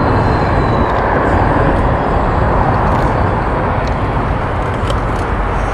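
Steady rush of wind and road noise while riding an electric fat-tire bike, with a few faint ticks.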